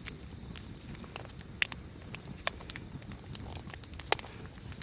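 Wood campfire crackling, with sharp irregular pops over a steady high-pitched tone.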